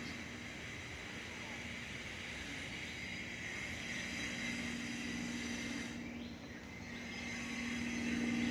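Steady low mechanical hum over background noise, with no animal calls.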